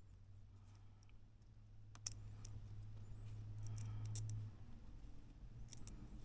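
Faint sharp clicks and taps of small plastic and metal Mini 4WD parts being handled and set down, a few scattered clicks over a low steady hum.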